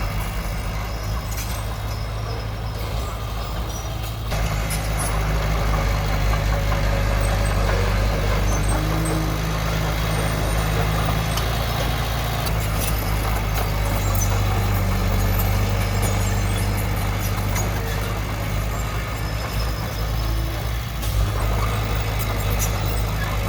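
Diesel engine of heavy earthmoving machinery running steadily, getting louder about four seconds in.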